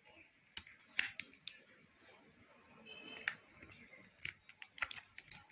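Batteries being fitted into a glued-together TV remote: irregular sharp clicks and knocks of plastic being handled, with a brief squeak about three seconds in.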